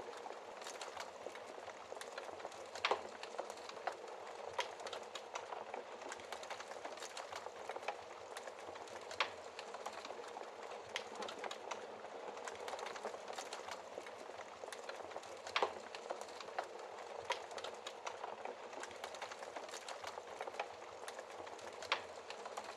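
Wood fire burning in a fireplace: a steady hiss with constant light crackling and a few sharper pops, roughly every six seconds.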